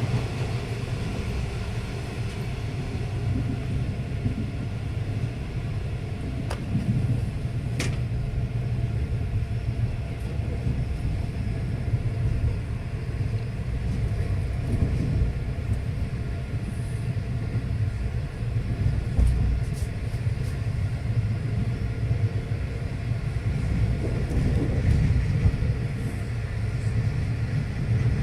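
Steady low rumble of a V/Line passenger train running along the track, with a couple of faint clicks about seven seconds in.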